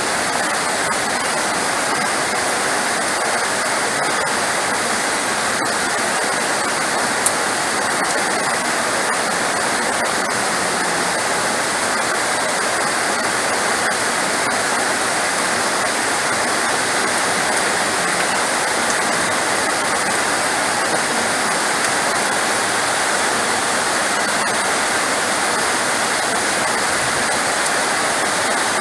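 Heavy rain pouring in a steady, dense hiss, with one sharp tick about seven seconds in.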